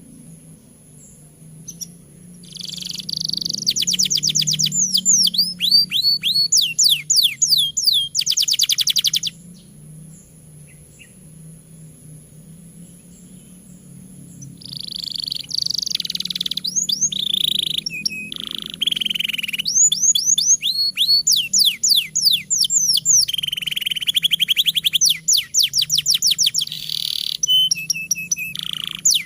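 Domestic canary singing long, continuous song phrases of fast trills and rapidly repeated downward-sweeping notes. The song breaks off for about five seconds partway through, then resumes. A low, steady hum sits underneath.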